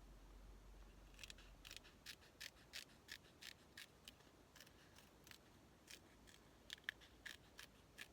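Scissors snipping paper in a run of short cuts, about three a second. They pause midway, then a few more snips follow near the end.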